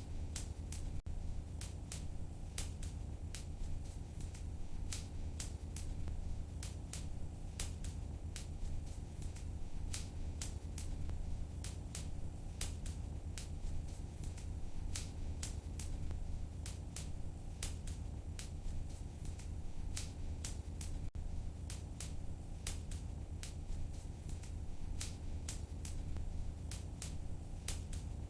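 Wood fire crackling in a fireplace: frequent, irregular sharp pops and crackles over a steady low rumble of the burning fire.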